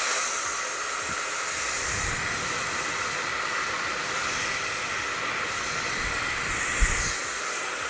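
MQ Pro Digital 2400 W hair dryer running at its highest speed: a steady rush of blown air with a faint motor whine.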